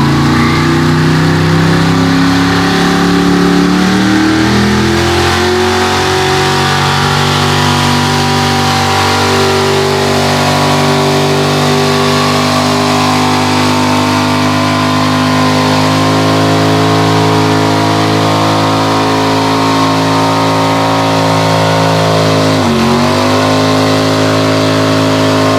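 Mega truck engine revving up over the first few seconds, then held at high, steady revs as it drags the pulling sled. The pitch dips briefly about 23 seconds in, then recovers.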